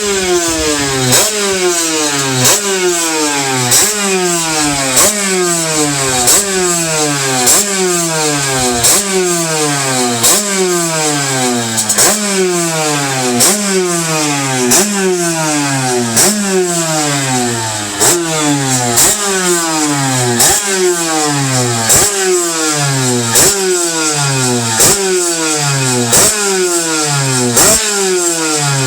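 Small 50cc two-stroke engine with a newly fitted Kaos expansion-chamber exhaust, blipped over and over: each throttle stab sends the revs up sharply, then they fall back. The blips come at an even pace, roughly one every second and a half.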